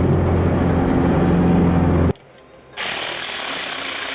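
Turbocharged SR20DE+T engine in a B13 Nissan Sentra running with a steady drone. It cuts off abruptly about two seconds in. After a short pause a different sound starts, a hiss with a few falling whines.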